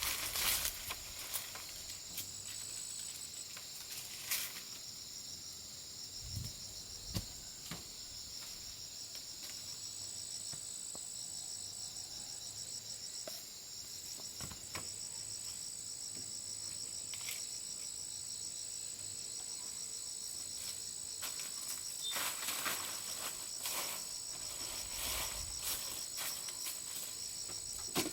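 Steady high-pitched chirring of insects, with fine rapid pulsing, and scattered rustles and knocks that come thicker in the second half.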